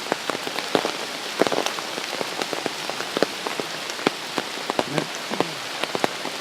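Steady heavy rain, an even hiss with many single drops landing close by as sharp ticks.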